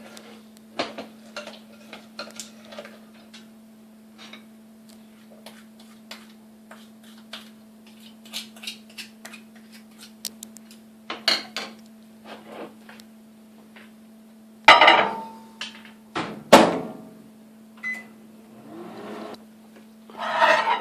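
Microwave oven humming steadily, with scattered light clicks of a spoon stirring hot peanut brittle mixture in a glass Pyrex bowl. A few louder knocks come about fifteen and seventeen seconds in, and a short beep follows.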